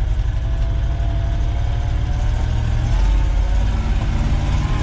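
1973 Ford F-250's 360 FE V8 working hard in granny low, a steady low rumble with the revs climbing near the end as the military tires lose traction in the snow and the truck fails to take the hill.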